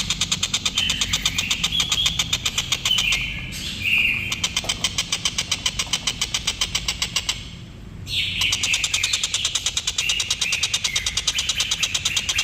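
Tengkek buto kingfisher calling in long runs of rapid, sharp, harsh notes, about five a second. The runs break off briefly twice.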